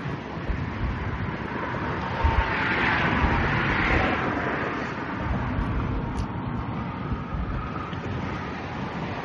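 A passing vehicle's rushing noise swells to a peak about three to four seconds in and then fades, with wind buffeting the microphone.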